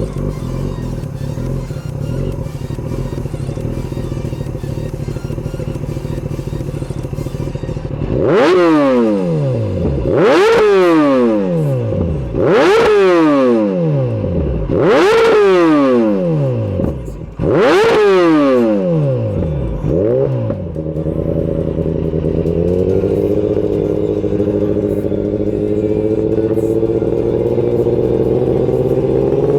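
Kawasaki ZX-10R inline-four motorcycle engine idling, then revved hard five times about every two seconds, each rev climbing sharply and dropping back, with a smaller sixth blip. Afterwards it runs steadily with its pitch slowly creeping up.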